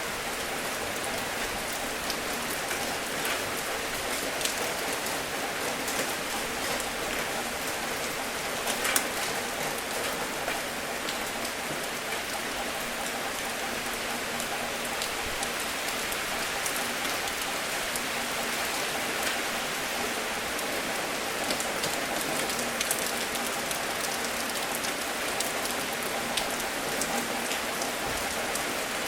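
Steady rain falling on a surface, an even hiss with many individual drops ticking through it and one sharper drop about nine seconds in.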